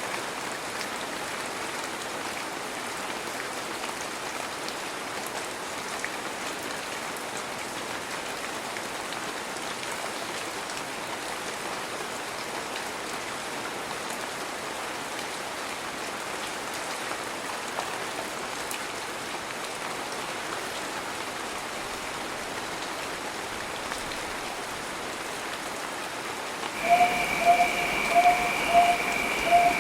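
Heavy rain falling as a steady, even hiss. Near the end a louder steady high tone starts, with a lower tone pulsing nearly twice a second.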